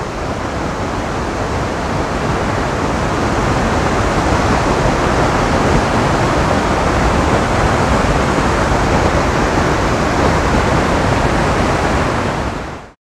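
Waterfall rushing: a loud, steady wash of falling water that grows a little louder over the first few seconds and cuts off suddenly near the end.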